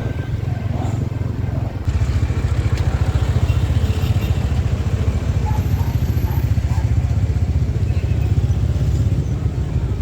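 Motor vehicle engine rumble, low and steady with a fast pulse, getting louder about two seconds in.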